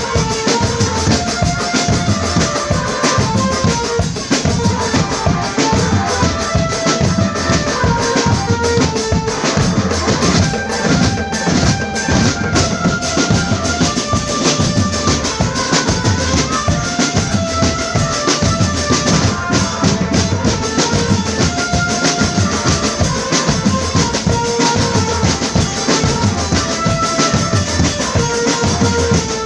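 Marching drum band playing: dense, steady drumming with bass drums and snares under a melody of held notes.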